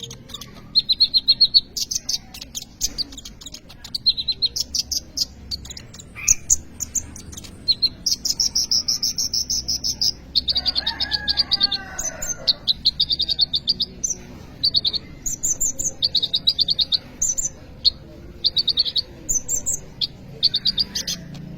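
Kolibri ninja sunbird singing persistently: fast, high, buzzy trills and rapid note series in quick succession. A brief lower, wavering call cuts in about halfway through.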